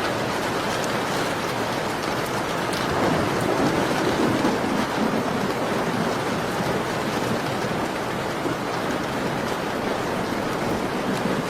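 Steady rain falling, with scattered small crackles of a fireplace. About three seconds in it swells louder for a couple of seconds with a low rumble.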